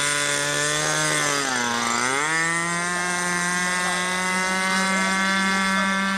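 Small radio-controlled model-aircraft engine running at high speed. Its note drops for about a second, as if throttled back, then climbs again and holds a steady high pitch.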